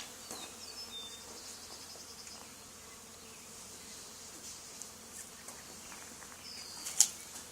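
Honey bees of a swarm buzzing steadily around a hive box, fanning at the entrance to set up a draft that draws the rest of the swarm in. A single sharp click about seven seconds in.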